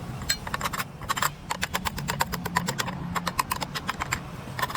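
Rapid, irregular light tapping or clicking, several sharp strikes a second with short pauses, over a low steady hum.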